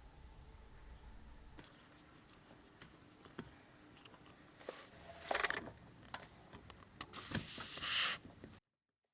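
Small objects being handled: a run of light clicks, then a few louder knocks and a metallic-sounding clatter about five seconds in and again around seven to eight seconds. The sound cuts off abruptly near the end.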